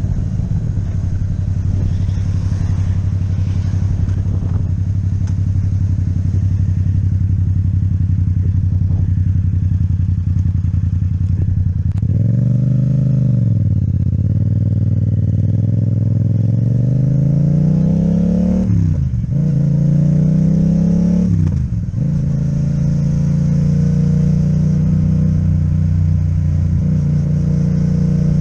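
Yamaha MT-07 parallel-twin engine with an Akrapovic exhaust, running steadily at cruise. Partway through it drops and climbs in pitch, then pulls up through two quick upshifts, each a sudden fall in pitch, before settling into a steady run again.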